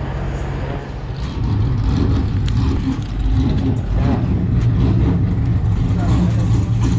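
A vehicle's engine running close by with a deep, uneven rumble, getting louder about a second and a half in and holding there.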